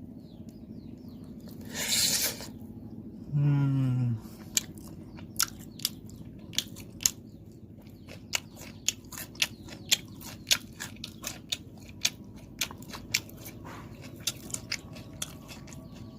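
A person eating barbecued chicken: close mouth sounds of biting and chewing, with many sharp, irregular wet smacks and clicks. A brief hummed "mm" comes about three seconds in.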